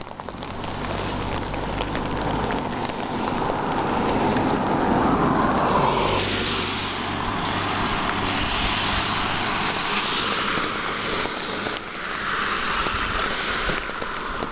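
A car passing on the rain-wet road: its tyre hiss and engine swell over the first five seconds, peak about five or six seconds in with a drop in pitch as it goes by, then fade into a spraying hiss.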